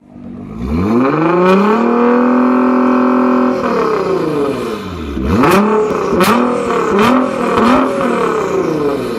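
Nissan GT-R engine through a titanium exhaust, revved: it rises and holds high for about a second and a half, drops, then is blipped several times. Three of the blips carry sharp cracks. It settles back toward idle at the end.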